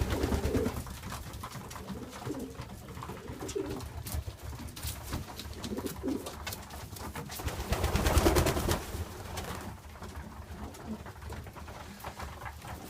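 Racing pigeons cooing in a loft, a series of low coos from cock birds driving the hens. About eight seconds in there is a louder rustling noise.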